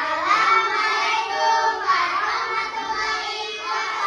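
A child singing in a high voice with long, gliding held notes.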